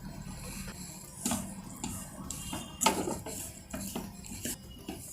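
A spoon scraping and knocking against a pan, several separate scrapes and clinks, as ground dates are stirred into roasted nuts.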